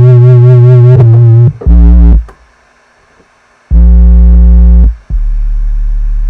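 Loud, distorted electronic buzzing tones. The first is held with a wavering pitch and a short one follows. After a pause comes a steady tone, then a lower steady drone sets in about five seconds in.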